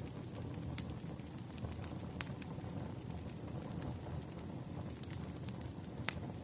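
Wood fire crackling: a steady low rush of burning with sharp pops of the firewood at irregular moments, three of them standing out.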